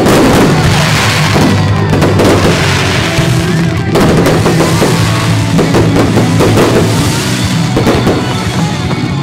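Fireworks going off in quick succession, many bangs and crackles one after another, over background music with steady low notes.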